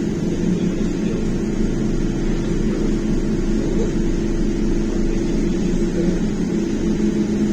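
Inside a Belkommunmash BKM-321 trolleybus on the move: a steady hum from the electric traction drive over low road and tyre rumble.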